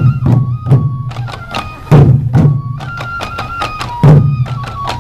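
Sansa Odori festival music: a group of taiko drums struck in a loud rhythm, with heavy beats at the start, about two seconds in and about four seconds in, sharp stick clicks between them, and a yokobue bamboo flute playing a stepping melody over the drums.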